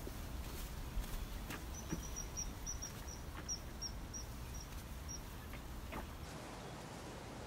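A small bird giving a run of about a dozen short, high chirps, a few a second, starting a couple of seconds in and stopping about five seconds in, over low steady outdoor background noise.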